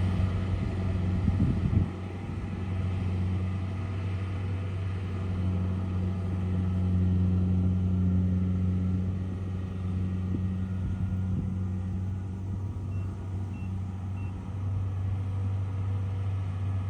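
Heavy engine of a rice combine harvester running steadily with a low hum, its loudness rising and falling slightly. Three short, faint high beeps sound about three-quarters of the way through.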